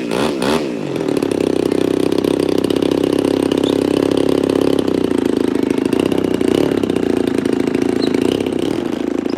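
DLE 35RA single-cylinder two-stroke gasoline engine of an RC model aeroplane running at a steady speed, after a few quick pitch sweeps in the first second.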